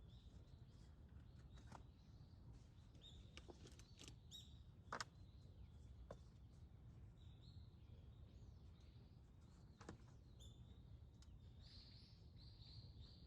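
Faint, scattered bird chirps over a low, steady outdoor background hum at near-silence level, with a few short sharp clicks; the chirping thickens near the end.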